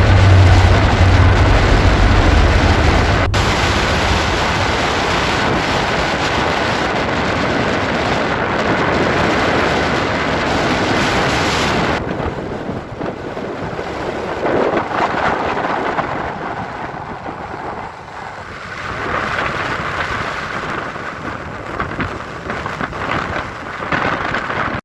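Rain pouring in windy weather, a loud, steady hiss. About halfway through it changes abruptly and turns quieter and more uneven.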